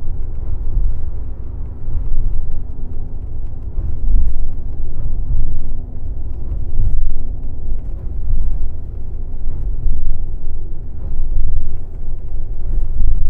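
Airport limousine coach riding along: a steady low rumble of engine and road noise from inside the cabin, swelling and easing every second or two.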